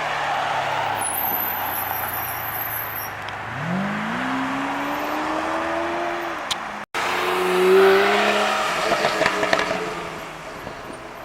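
Supercar engines at full throttle: one accelerating with its exhaust note rising steadily in pitch, then after an abrupt cut a second one, louder, that peaks and is followed by a quick run of sharp cracks from the exhaust before fading away.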